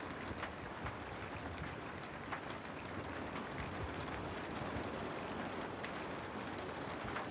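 Steady rain falling, with many small individual drops pattering on a surface.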